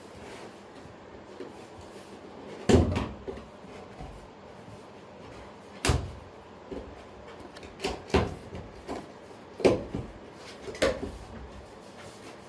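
Helmet box being unboxed by hand: about five dull knocks and bumps a few seconds apart, with softer scuffs and rustles of packaging in between.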